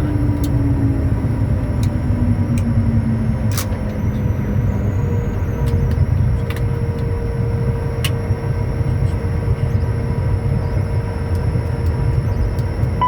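Steady low rumble inside the cockpit of a Bombardier Challenger 350 on the ground after landing, with the Honeywell HTF7350 turbofans' tone falling in pitch early on and a few sharp clicks.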